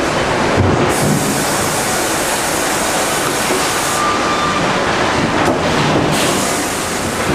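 Sawmill line machinery for pallet boards running, a loud continuous mechanical noise. A high hiss comes in about a second in, drops out around four seconds and returns around six.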